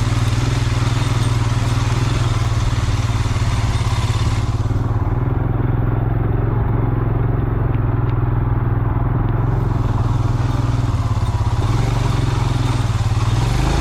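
Motorcycle engine running steadily at low, even revs while riding. The high hiss above it drops away for about five seconds in the middle, then returns.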